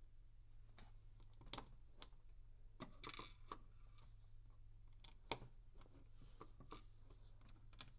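LEGO plastic bricks being handled and pressed together: scattered small clicks and light rattles, one sharper click a little past five seconds in, over a faint steady low hum.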